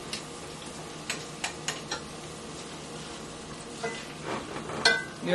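Chicken strips and mixed vegetables sizzling steadily in a hot skillet as they are stirred, with a few light clicks of tongs in the pan.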